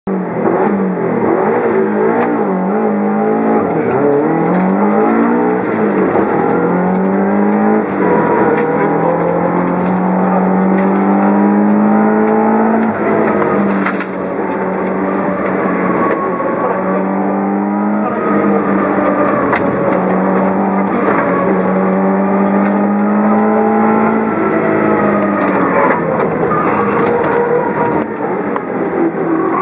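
A Subaru Impreza GC8's flat-four engine, heard from inside the cabin, driven hard on a rally stage. It revs up through the gears, the pitch climbing and then dropping back at each gearshift.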